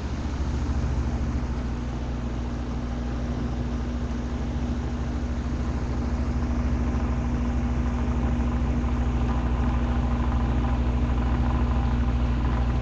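McGraw Edison box fan running steadily on its high speed: the electric motor hums at a steady low pitch over the even rush of air from the blades. The owner says the motor still needs more oiling.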